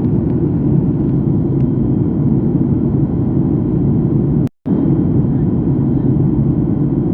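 Steady low roar inside an airliner cabin in flight, from the engines and the airflow over the fuselage. It breaks off for a split second about four and a half seconds in.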